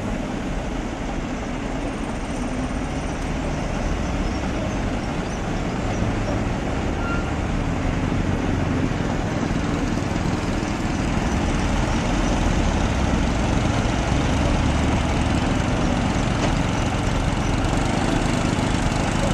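Heavy truck engine running with road noise, growing louder over the first several seconds and then holding steady.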